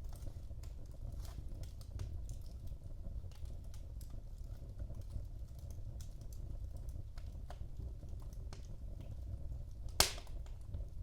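Wood fire burning in a fireplace: a low steady rumble with scattered crackles and ticks, and one loud pop about ten seconds in.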